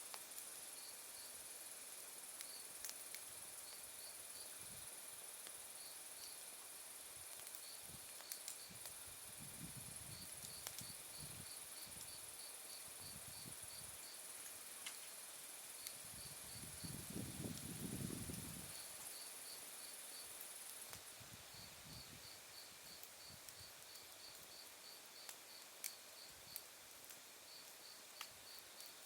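Autumn night insects: a steady high-pitched trill that stops about two-thirds of the way through, and crickets chirping in short rhythmic runs. A few sharp crackles from a small wood fire, and a brief low rumble about halfway through.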